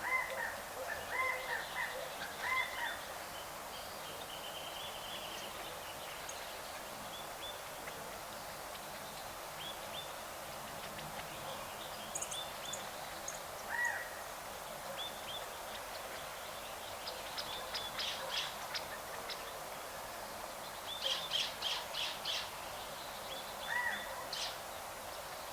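Birds calling: a short, arched call repeated several times, and two bursts of rapid chattering notes in the second half.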